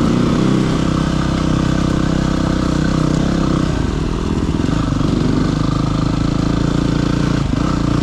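Single-cylinder four-stroke dirt bike engine running steadily while riding a trail, its note changing about halfway through and again near the end.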